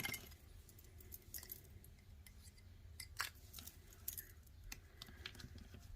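Faint, scattered light clicks and taps of small stamping supplies being handled and moved aside on a work surface.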